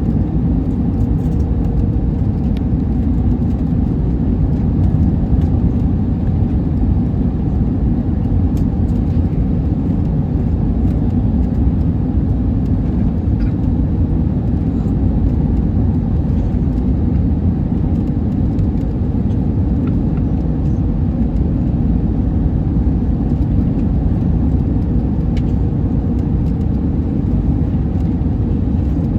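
Steady cabin noise of an Airbus A321neo airliner in flight: an even, deep rumble of engines and rushing air with a faint steady hum.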